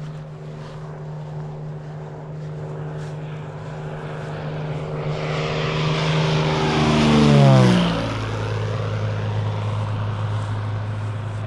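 A small propeller airplane's engine passing close by. The note grows louder for about seven seconds, then drops in pitch as the plane goes past and away.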